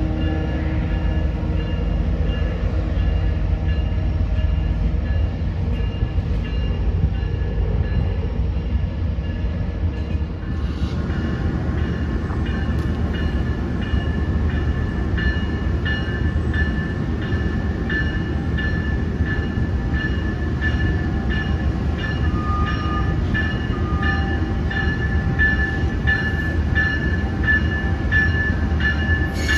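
Diesel passenger train locomotive running with a steady low rumble. About ten seconds in the sound grows fuller, and a rhythmic metallic ringing starts, about one strike a second, that carries on to the end.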